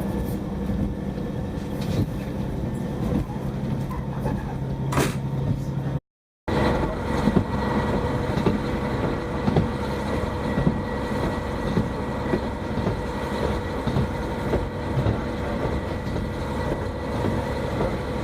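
Train running, heard from inside the carriage: a steady engine drone with wheel-on-rail rumble and irregular knocks from the track. The sound cuts out abruptly for a moment about six seconds in.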